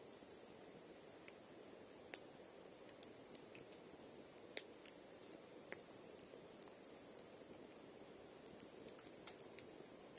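Campfire crackling, with scattered sharp pops at irregular intervals over a faint low hiss.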